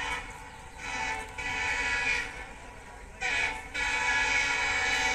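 EMD WDP-4 diesel locomotive sounding its horn in repeated blasts: one of about a second and a half, a short one just past three seconds, then a long one held to the end.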